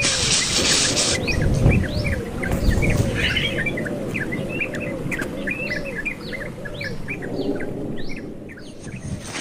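Nestlings cheeping in a rapid, overlapping stream of short high chirps, as young birds do when begging at the nest. A steady high hiss stops about a second in, and low rumbles come in the first few seconds.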